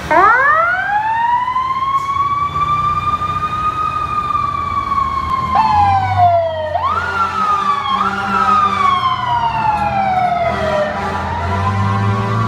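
Fire truck siren winding up slowly to a high wail over the first few seconds, then, from about halfway through, rising quickly and falling away slowly again and again, over a low truck engine rumble.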